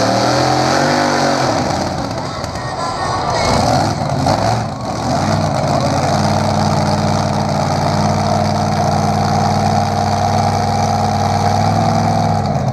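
A pulling vehicle's engine under full load as it hauls the sled in a tractor pull. It revs up and down at first, then holds a steady high pitch and shuts off near the end.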